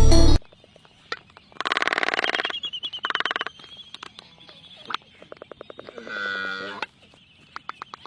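Music cuts off, and then an animal gives harsh, buzzy calls: two close together, then a longer pitched call with a wavering tone, with scattered clicks in between.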